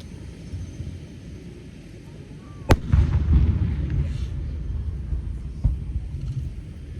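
Fireworks display: a few faint launch thumps, then a loud aerial shell bursting about two and a half seconds in, followed by a long low rumble. A smaller bang follows near six seconds.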